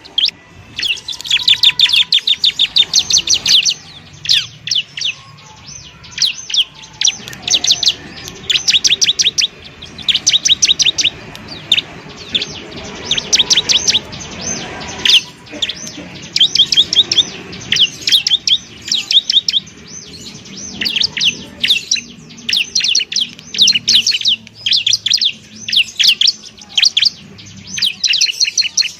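Bar-winged prinia (ciblek) singing: rapid runs of sharp, high ticking notes, delivered in repeated bursts of a second or two with short pauses between.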